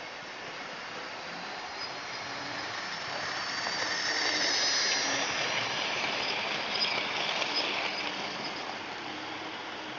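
Garden model train running on its track, its wheels and wagons rattling, growing louder as it comes close in the middle and fading again, with a few small clicks near the loudest part.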